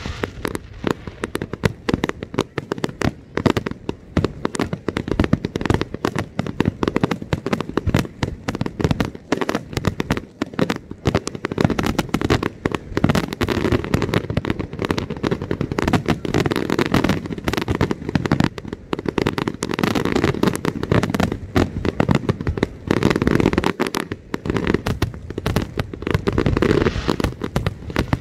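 Fireworks display at close range: aerial shells bursting in a rapid, unbroken barrage of overlapping bangs.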